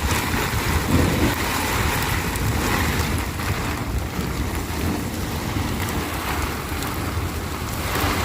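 Strong blizzard wind blowing in gusts and buffeting the microphone with a low rumble, swelling and easing every few seconds.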